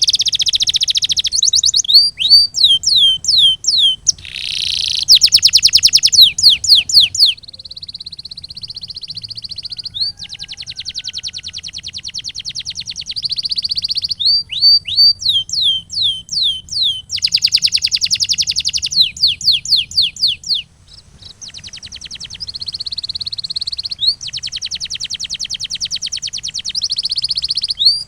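Male canary singing a continuous training song of changing phrases: fast rolling trills, runs of short downward-sliding whistled notes, and a steady buzzing roll.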